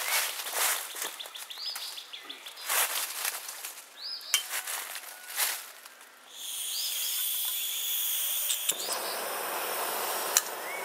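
Outdoor ambience with a bird repeating short rising-and-falling chirps and several brief bursts of noise. About six seconds in, a steady hiss comes up, and a broader rushing noise joins it near nine seconds.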